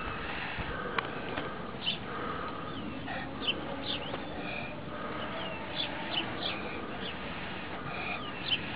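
Small birds chirping: short high chirps, some sliding down in pitch, come every second or so over a soft steady hiss.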